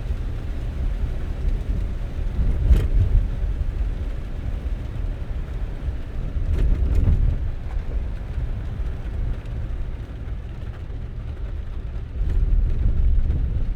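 A car driving, with a low rumble of road noise that swells and eases, and a few brief sharp clicks.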